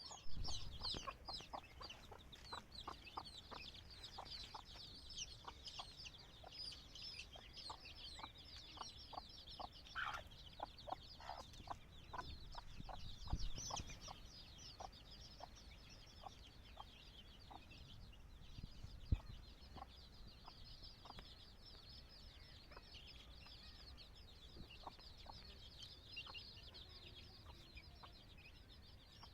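Chickens clucking, short clucks repeating every second or so, over a dense high chirping that never stops. Two low thumps, about 13 and 19 seconds in.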